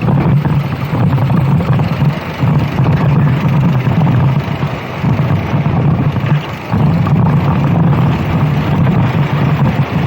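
Racing kart engine running hard, with wind buffeting the microphone. The engine note drops away briefly three times, about two, five and six and a half seconds in, where the throttle is lifted.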